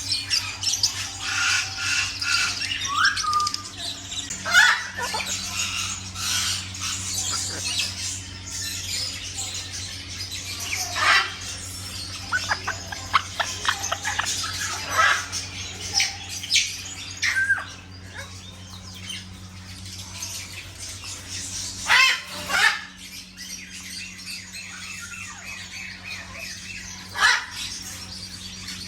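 Many caged birds calling together: loud harsh squawks every second or two over a dense, constant chatter of high chirps, with a steady low hum underneath.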